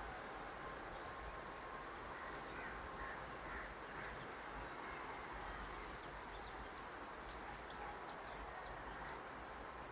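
Faint outdoor ambience: a steady hiss with scattered short bird calls.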